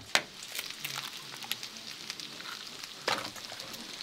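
Food frying in a pan with a steady sizzle, broken by a few sharp knocks, the loudest just after the start and another about three seconds in.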